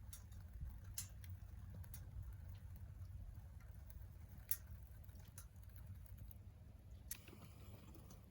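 Wood burning in a secondary-combustion wood stove: faint crackling with irregular sharp pops, the loudest about halfway through, over a low steady rumble.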